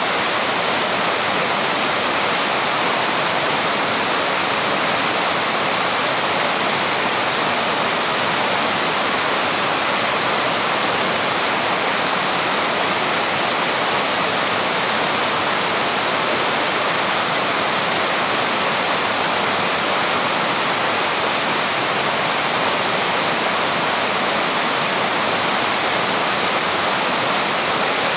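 Small waterfall rushing steadily, a constant even roar of falling water with no breaks.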